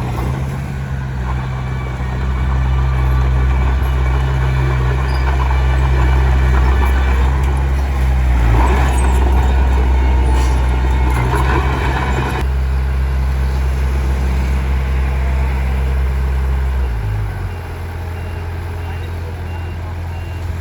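Komatsu D21P small crawler bulldozer's diesel engine working hard, with clattering and scraping from the tracks and stone for several seconds mid-way. Near the end the engine note drops lower and quieter as it throttles back.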